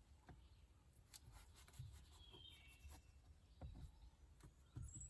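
Near silence with faint scattered taps and rubbing, and a faint bird chirp about two and a half seconds in.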